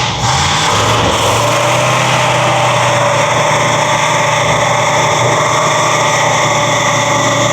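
A car engine running loud and steady at idle, its pitch settling after a brief rev about a second in.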